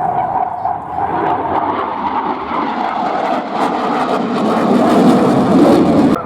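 Eurofighter Typhoon jet fighter's two EJ200 turbofan engines roaring in a display pass. A whining tone falls slowly in pitch in the first second or so, and the roar grows louder and deeper toward the end before cutting off suddenly.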